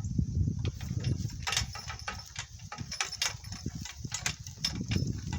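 Donkey cart on the move over rough ground: a low, steady rumble, joined about a second and a half in by irregular clicks and rattles.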